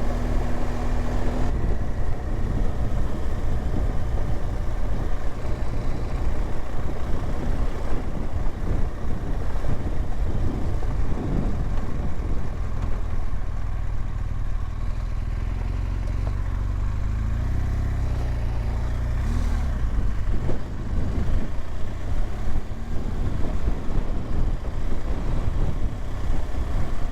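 BMW R1200GSA's boxer-twin engine running steadily while the bike is ridden, heard through a helmet microphone with wind noise over it. The engine note shifts a little over halfway through.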